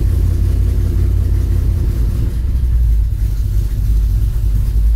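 Small-block Chevy V8 running on a freshly installed Holley Sniper throttle-body EFI just after start-up, its idle hunting. Engine speed drops from about 1,300 rpm to about 700 rpm while the EFI is still learning.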